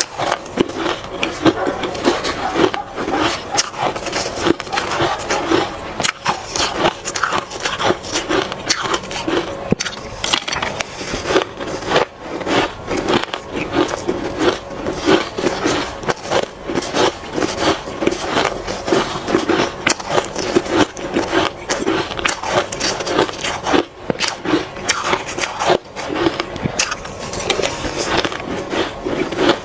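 Close-miked crunching of hard matcha ice being bitten and chewed, a continuous run of crisp cracks and crackles.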